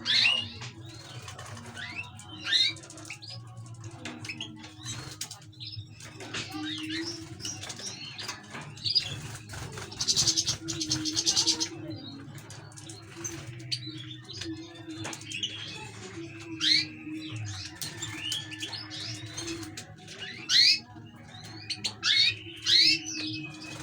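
Canaries and goldfinches chirping in short rising calls, with a dense buzzy trill about ten seconds in, over a steady low hum.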